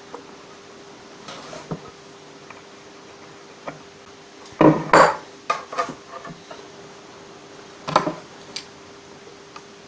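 Fret wire being cut to length with clippers: a few sharp metallic snips and clinks, the loudest two close together about five seconds in and another about eight seconds in.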